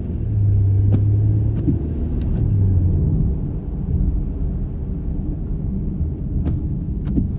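Car interior while driving: the engine and road noise make a steady low rumble, heavier during the first three seconds as the car pulls onto the road and accelerates, then settling. A few light clicks are heard through the rumble.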